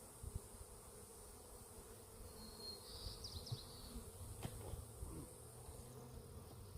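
Honey bees buzzing steadily around a hive that has just been knocked over; the colony is disturbed. A brief high chirp comes about three seconds in.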